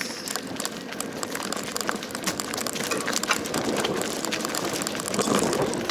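Mountain bike rolling over a rough dirt trail: a dense, steady crackle and rattle of tyres on gravel and leaves, with the bike clattering over bumps.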